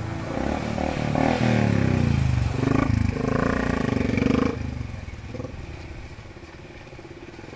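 Motorcycle engine running, its pitch rising and falling, loud for the first four and a half seconds or so, then continuing much more quietly.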